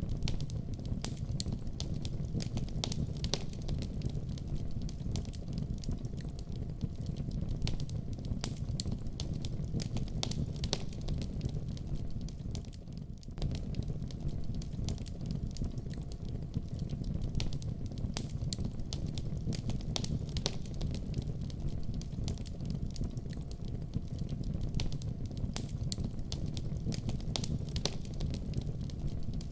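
Wood fire crackling over a steady low rumble, with many sharp pops scattered throughout and a brief dip in level about halfway through.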